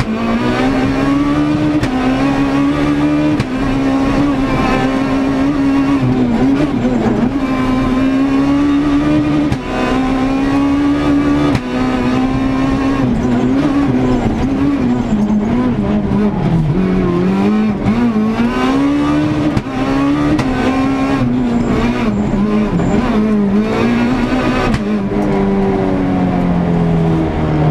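Onboard sound of a Renault Clio S1600 rally car's high-revving engine driven flat out, the note climbing and falling as it changes gear and brakes into corners, with brief lifts in between. Near the end the revs drop to a steadier, lower note as the car slows.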